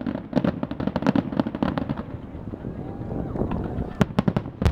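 Fireworks display: dense crackling from bursting shells for about the first two seconds, a quieter lull, then sharp bangs about four seconds in and again near the end.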